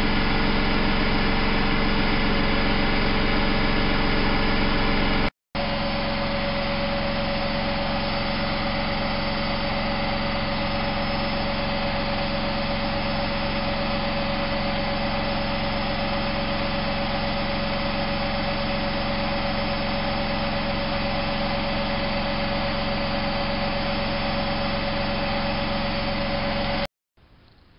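Bauknecht WAP 6460 front-loading washing machine running steadily with a continuous motor whine, typical of the drum spinning; the owner notes its drum bearing has play. The sound cuts out about five seconds in, resumes with a clearer steady whine, and stops shortly before the end.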